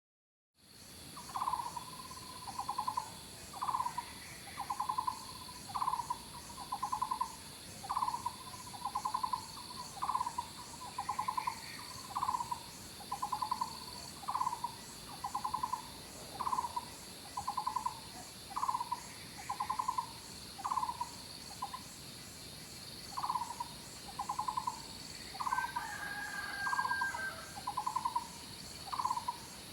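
Outdoor night-time wildlife ambience. A short, pulsed animal call repeats about once a second over steady high-pitched insect trilling, and a second, higher call joins briefly near the end.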